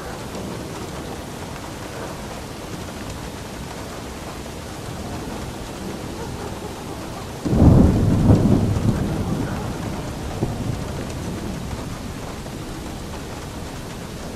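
Steady rain with a sudden clap of thunder about halfway through, a low rumble that fades away over several seconds.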